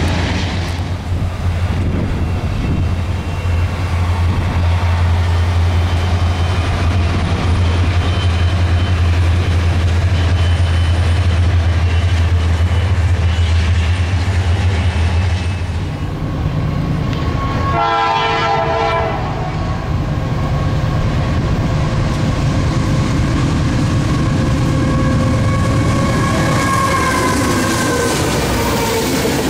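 Freight trains passing: rail cars rolling over the track with a steady low rumble and clickety-clack, a diesel locomotive horn sounding briefly about two-thirds of the way through, and a CSX diesel locomotive and boxcars running past close by near the end.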